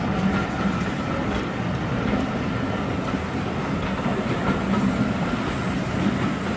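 Steam-hauled heritage train running along the track, its wheels clattering steadily over the rails.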